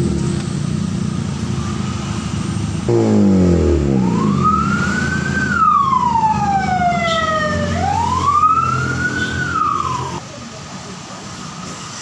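Honda Civic engine through a branched aftermarket exhaust, idling, then blipped once about three seconds in and dropping back. A wailing siren rises and falls twice over the engine, then stops, leaving a quieter idle.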